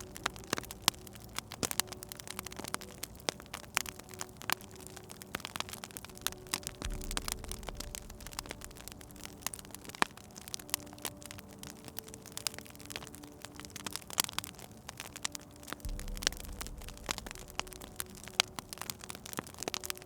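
Wood fire crackling in a fireplace: frequent sharp pops and snaps over a soft hiss, with faint sustained low tones underneath.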